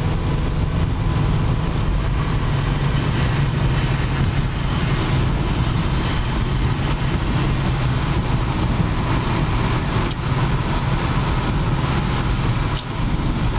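Steady road noise inside a moving car's cabin: the engine and tyres running at an even pace.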